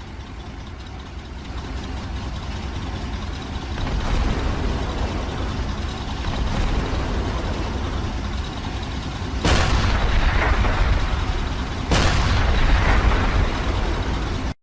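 Mock battle noise: a heavy, steady rumble that grows louder, with two sudden explosion blasts about two and a half seconds apart near the end.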